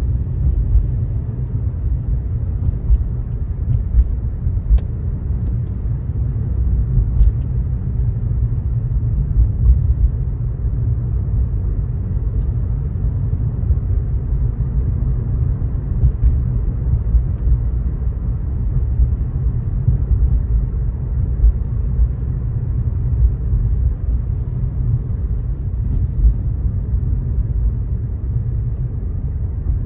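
Car driving on a wet road: a steady low road rumble with a hiss of tyres on wet pavement, and a few faint ticks.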